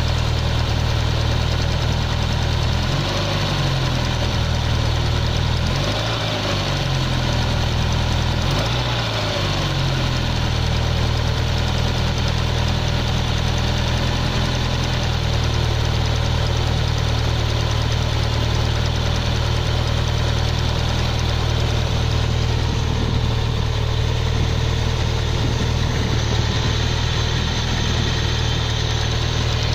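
Car engine idling after a cold start, with an abnormal noise that the owner traces to the cylinder at the driver's-side end. The idle wavers a few times in the first ten seconds, then holds steady.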